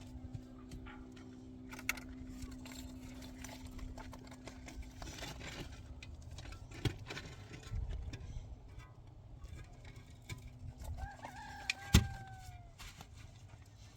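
A rooster crows once, a pitched call of about a second and a half that falls slightly near the end, about eleven seconds in. Before it a steady low hum runs and then stops, and scattered clicks and knocks sound throughout; a single sharp knock during the crow is the loudest sound.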